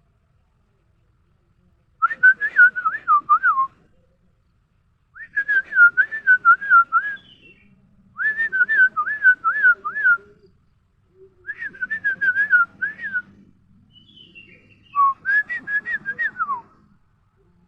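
Five phrases of warbling, bird-like whistling, each about one and a half to two seconds of quick up-and-down notes, separated by short pauses.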